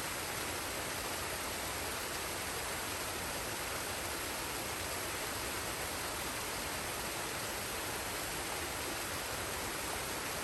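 Forest waterfall and stream: water pouring and rushing in a steady, unchanging wash of sound.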